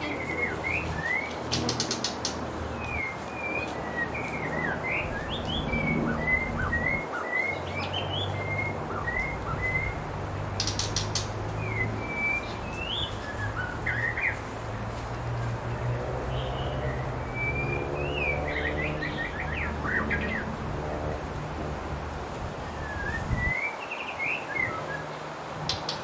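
Songbirds chirping and whistling in short, varied notes, with a few brief buzzy trills, over a steady low hum.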